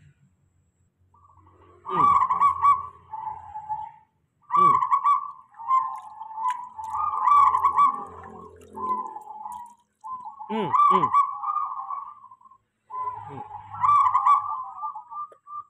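Repeated nasal, honking bird calls, in runs of one to three seconds separated by short gaps.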